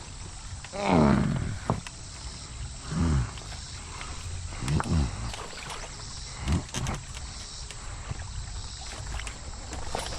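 A big fish-hunting bird, disturbed, calls four times. Each call is loud and falls in pitch, and the first, about a second in, is the longest and loudest.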